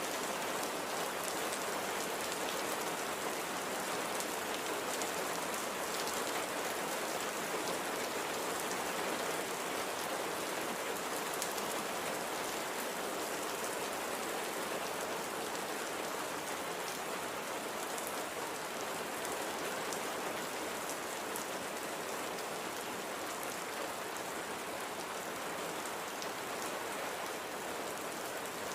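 Light, steady rain falling on a surface, an even patter with fine drop ticks and no change in level.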